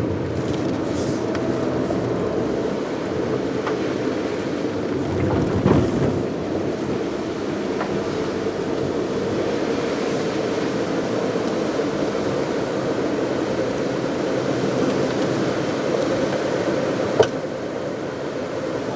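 Car driving at a steady speed, with steady road and engine noise. There is a brief louder bump about six seconds in and a single sharp click near the end.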